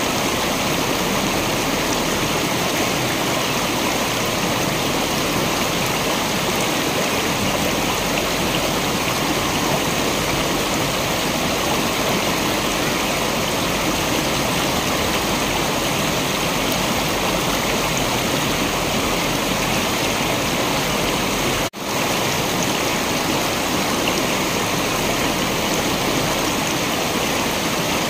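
Waterfall's rushing water, a steady dense roar of falling water that cuts out for an instant about three quarters of the way through.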